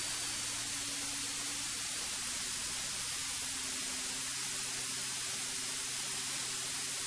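Steady hiss of a cockpit intercom audio feed with no one talking, with a faint low hum of the light aircraft's piston engine at low power underneath; the hum's pitch shifts slightly about two seconds in.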